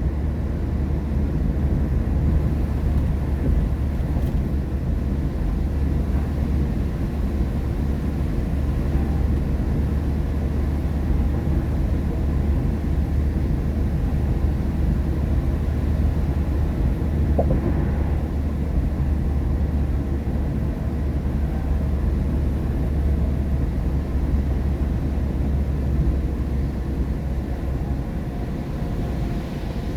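Steady low rumble of a car driving on a rain-wet highway, heard from inside the cabin: road and tyre noise with engine drone, unchanging throughout.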